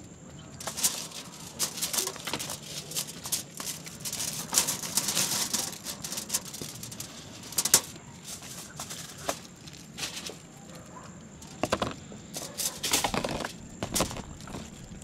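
Eating and food handling: irregular clicks, taps and crinkly rustles, as of food, packaging and utensils being handled and eaten, with a longer stretch of rustling about four to six seconds in.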